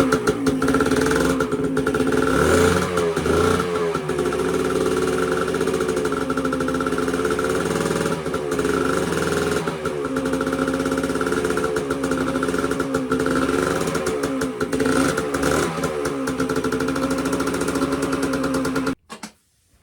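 1983 Yamaha AG100's single-cylinder two-stroke engine running after a top-end rebuild, blipped a few times so that the pitch briefly rises, then cutting off suddenly near the end.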